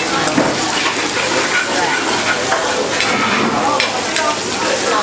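Onion and cabbage sizzling as they fry in a hot stone hotpot. A spatula stirs them, with scattered short scrapes and clicks against the pot.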